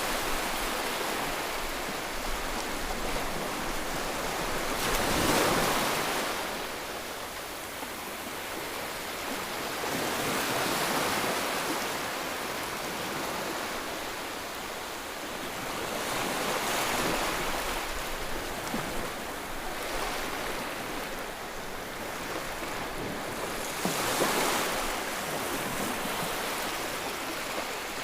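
White noise for soothing a baby: an even hiss that swells and ebbs about every six seconds, like surf breaking.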